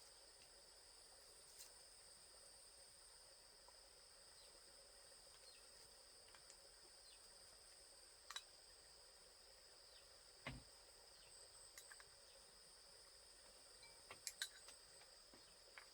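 Faint steady high-pitched chirring of insects, with a few soft clicks and knocks scattered through, the most prominent about ten seconds in and a quick cluster of three near the end.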